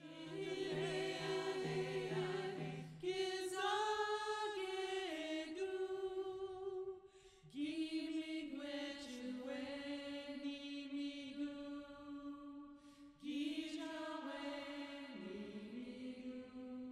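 Slow vocal chant sung in long held notes, with brief pauses between phrases about seven and thirteen seconds in.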